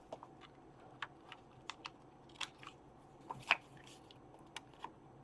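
Hands working paper and a small craft tool at a desk: scattered light clicks, snips and paper rustles, the sharpest click about three and a half seconds in.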